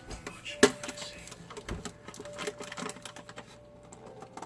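Irregular clicking and tapping, with one sharp click about half a second in, over a faint steady tone.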